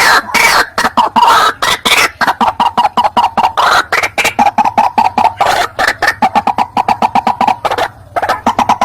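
White-breasted waterhen calling loudly: harsh, rasping croaks that run into a fast series of short repeated notes, about eight a second, with a brief pause near the end before the series resumes.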